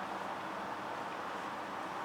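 Steady road and engine noise heard from inside a moving car, an even rush with a faint low hum.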